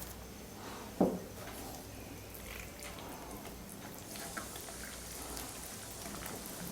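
Brownie batter being stirred in a bowl: faint, soft wet sounds with small clicks, and one short knock about a second in.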